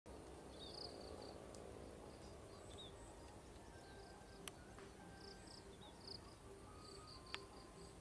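Faint, distant bird chirps in short high groups over a quiet rural background, with two sharp clicks, one about halfway through and one near the end.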